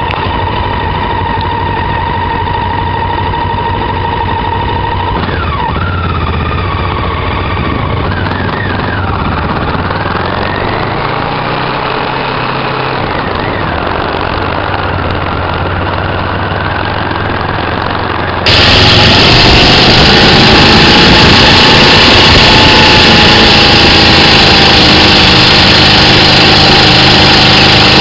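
Motorcycle engine running, revved up and back down a few times. About two-thirds of the way through there is a sudden cut to a louder recording of a motorcycle engine running fairly steadily.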